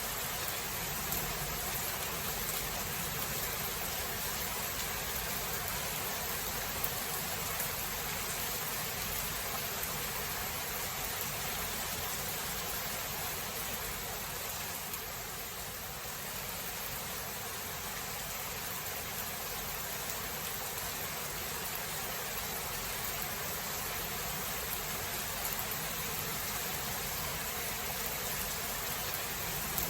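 Steady rain: an even hiss with no pauses, dipping slightly in level about halfway through.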